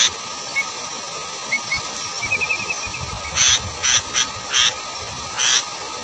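Bird sounds at a sooty-headed bulbul nest: a quick run of small high chirps about two seconds in, then four short raspy bursts in the second half, over a steady hiss.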